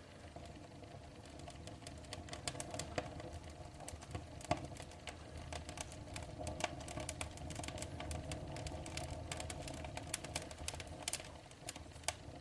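Fire burning in a fireplace, crackling with many irregular snaps and pops over a steady low hum.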